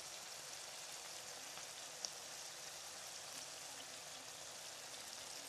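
Skin-on chicken pieces, sliced onions and green chillies frying in hot oil in a kadai: a soft, steady sizzle with fine crackles and one sharper pop about two seconds in.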